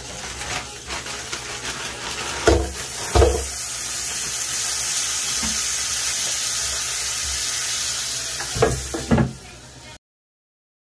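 Food sizzling steadily in a hot pan. A utensil knocks against the pan twice about two and a half to three seconds in, and twice more near the end. The sound then cuts off suddenly.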